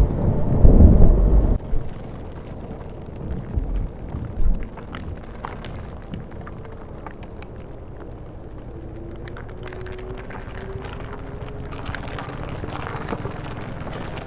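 Wind buffeting a motorcycle rider's microphone on the move: heavy low gusts in the first second or two, then a steady rush with scattered small ticks.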